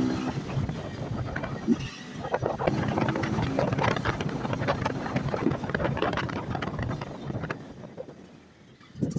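Motorcycle riding along, with wind buffeting the helmet or camera microphone and the engine note coming through now and then; the noise dies down near the end.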